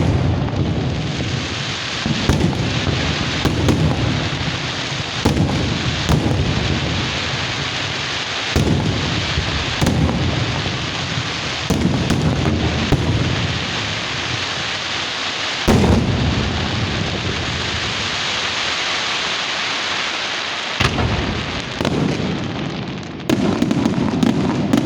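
Fireworks going off: about a dozen heavy bangs at irregular intervals over continuous dense crackling.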